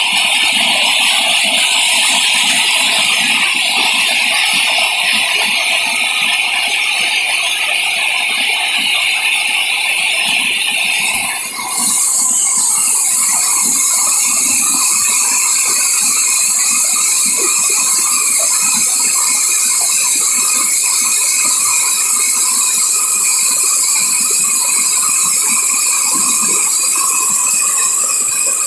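Insects chirring in steady high-pitched bands over the rush of a flowing mountain river. A little over a third of the way in, after a brief dip, the insect sound changes to a higher, thinner pitch.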